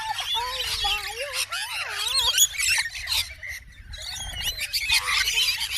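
A flock of small birds chirping and chattering all at once in quick, overlapping calls, with a lower warbling call weaving through, and a short lull about three and a half seconds in.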